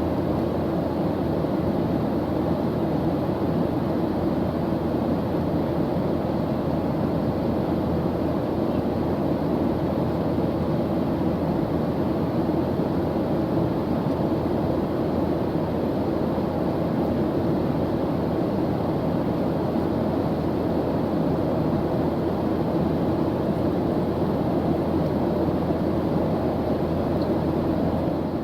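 Airplane engine drone: a steady, unbroken low rumble with a faint hum in it, not rising or falling.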